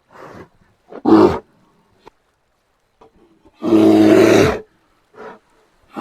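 Brown bear growling and roaring: a few short grunts, a loud huff about a second in, then a long, deep, rough roar of about a second near four seconds, and another roar beginning at the very end.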